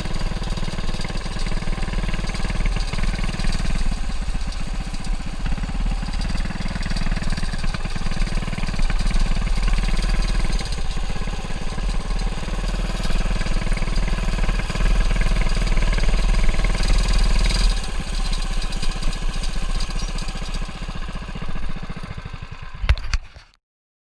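Lil' Rascal mini bike's small engine running as it is ridden, its level rising and easing off. It cuts off suddenly near the end.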